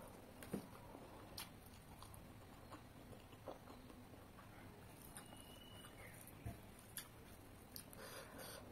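Faint eating sounds: a person chewing a mouthful of rice and chutney, with scattered soft mouth clicks and smacks about once a second.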